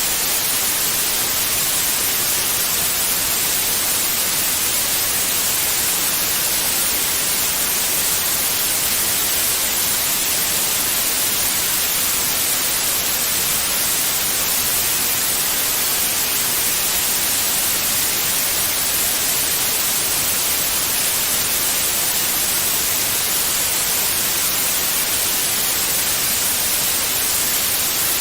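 Steady white noise: an even, unbroken hiss with no changes in level or pitch, brightest in the high treble.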